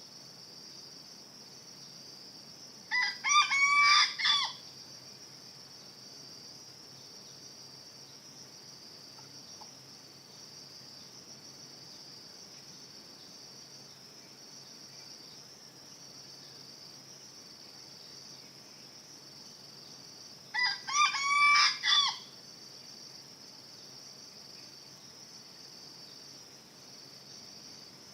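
Junglefowl crowing twice, each crow about a second and a half long, the second coming some seventeen seconds after the first, over a steady high drone of crickets.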